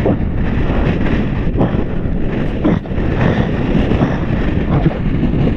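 Gale-force wind buffeting the camera microphone, a loud, dense rumble with gusts rising and falling.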